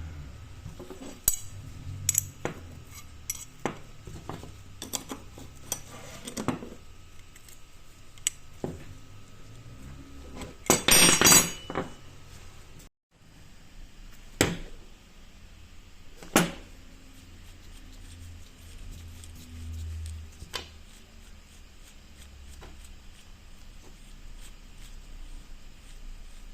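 Scattered sharp metallic clinks and knocks of bicycle parts and tools being handled, with a dense burst of clattering about ten seconds in.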